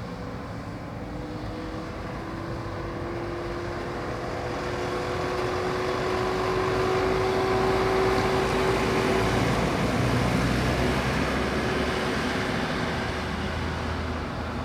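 A road vehicle's engine and tyre noise passing by, growing louder to a peak past the middle and then fading away.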